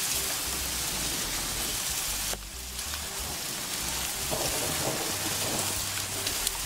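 Steady, heavy rain falling, an even hiss.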